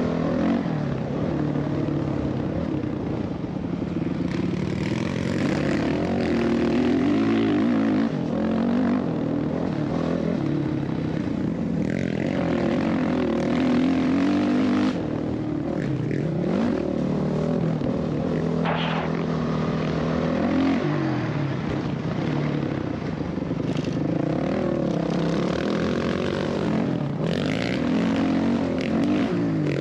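Dirt bike engine running hard, its pitch rising and falling again and again as the throttle opens and closes.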